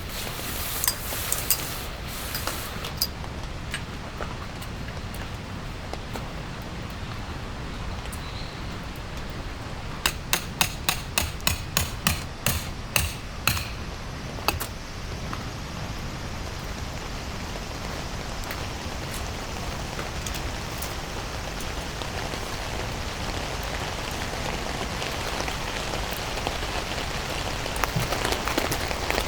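Steady rain falling, growing heavier toward the end, with a few scattered knocks early and a quick run of sharp knocks, about three or four a second, in the middle.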